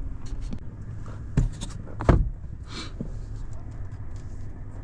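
A truck engine idling with a steady low rumble, while the trailer is being hitched up. Two heavy clunks come about a second and a half in and again about two seconds in, with lighter clicks between them.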